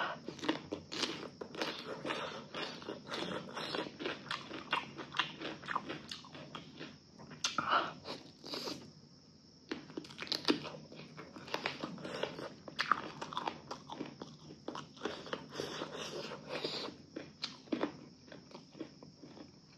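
A person chewing and biting food close to the microphone: a steady run of wet mouth clicks and crunches, with a short pause near the middle.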